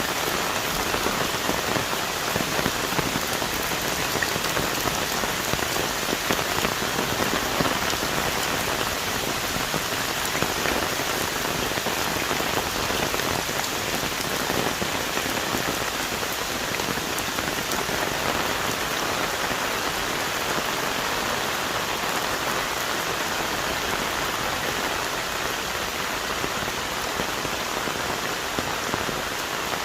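Heavy rain falling steadily on forest trees and leaves: a dense, even hiss of drops with fine pattering that neither builds nor eases.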